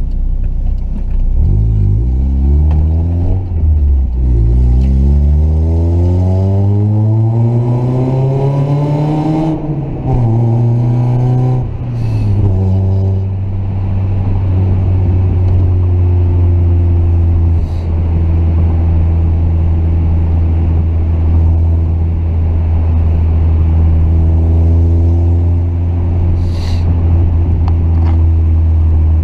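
Turbocharged Mazda Miata four-cylinder through a resonated test pipe and a 6-inch muffler with a 4-inch tip, accelerating hard through the gears. The pitch climbs and drops at each upshift, about four, ten and twelve seconds in, then the engine settles into a steady deep drone at cruising speed.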